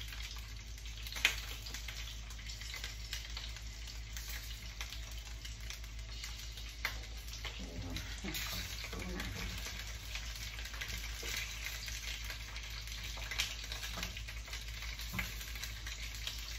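Whole green jalapeño and serrano chiles frying and browning in hot oil in a square copper-coloured pan, sizzling and crackling steadily. A slotted spatula stirs and scrapes them, with scattered sharper pops, the loudest about a second in.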